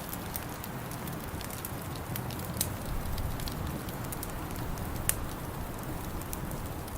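Wood fire in a fireplace crackling: scattered sharp pops over a steady low rumble, with the loudest pops about two and a half and five seconds in.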